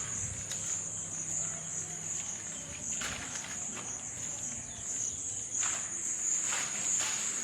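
Crickets chirring in a steady, high-pitched drone, with a few faint scuffs in the background.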